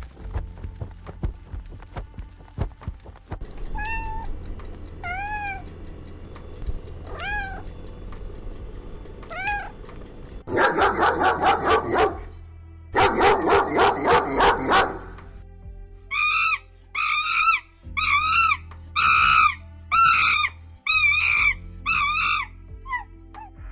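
Cat meowing: a few soft meows, two loud stretches of rapid pulsing sound, then a quick run of about eight louder meows in a row.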